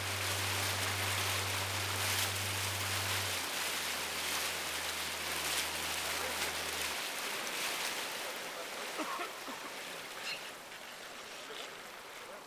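Tour boat's motor humming steadily over water rushing past the hull. About three seconds in the hum drops lower, and about halfway through it cuts out, leaving the water sound fading as the boat slows.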